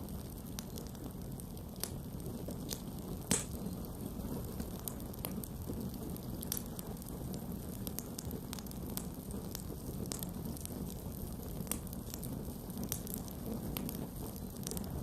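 Campfire burning with a steady low rush and irregular sharp wood crackles and pops, one louder pop about three seconds in.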